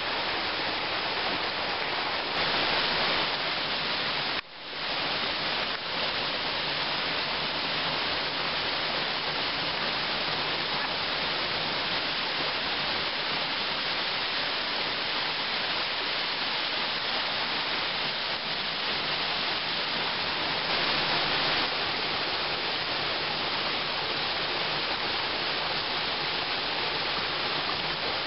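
Waterfall rushing steadily, with a sharp brief drop in level about four seconds in.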